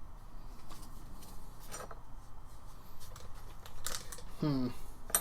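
Small handling noises at a workbench: a few light scrapes, rustles and taps of tools and gasket material, with a short sound falling in pitch near the end and a sharp click at the close.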